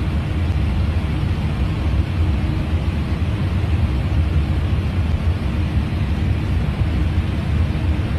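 Steady low rumble of an airliner in cruise flight, heard inside the cockpit: airflow and engine noise with a faint steady hum.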